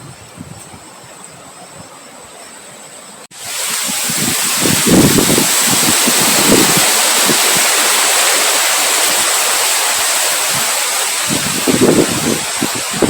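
Faint steady hiss, then after an abrupt cut about three seconds in, a loud steady rush of wind with irregular gusts buffeting the microphone.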